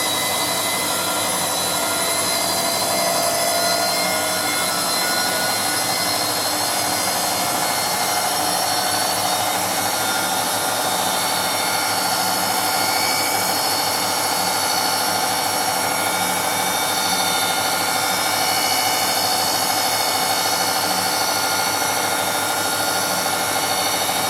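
Bosch MAXX 6 Express front-loading washing machine spinning at high speed: a loud, steady motor-and-drum whine with several tones held throughout.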